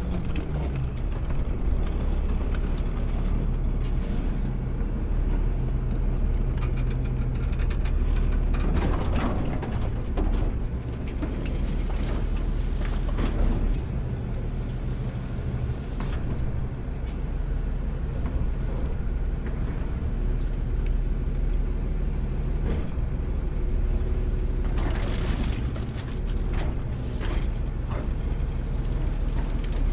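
Automated side-load garbage truck heard from the driver's seat: its engine runs steadily, with a few short hisses of air, like air-brake releases, about 9, 13 and 25 seconds in.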